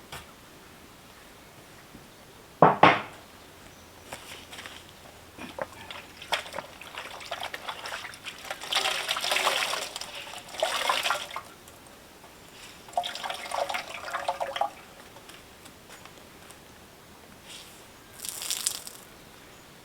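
Water pouring and splashing in several separate bursts, with a sharp knock a little under three seconds in.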